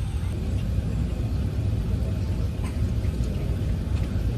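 Steady low rumble of cabin noise inside an Airbus A380 airliner.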